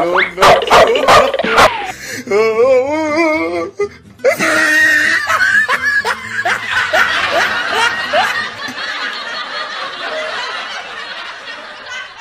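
A few sharp dog barks in the first two seconds, then a wavering, warbling tone, then a long stretch of laughter over music that slowly fades.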